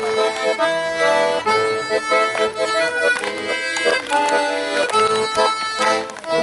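Accordion playing a melody over sustained chords: the instrumental introduction to a song, leading straight into the first sung line.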